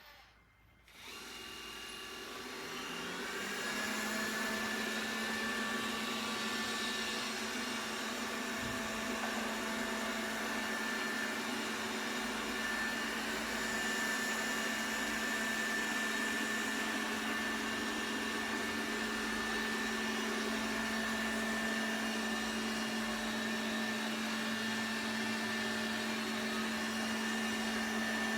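Xiaomi X20 Pro robot vacuum's motor starting about a second in and spinning up with a rising whine over a few seconds, then running at a steady pitch with a hum under a high whine.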